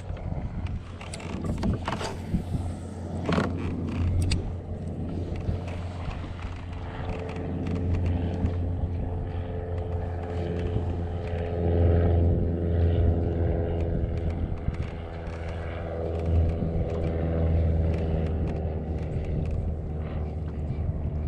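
A boat's engine running steadily, its drone rising and falling in strength. A few sharp clicks come in the first few seconds.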